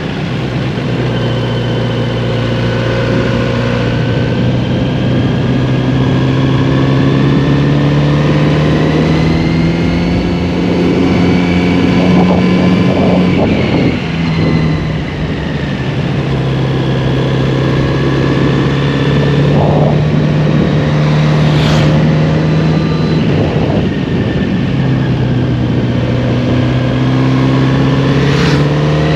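Motorcycle engine running on the road, its note climbing steadily as it pulls. The note breaks and drops at a gear change about halfway through and again about two-thirds through, then climbs again.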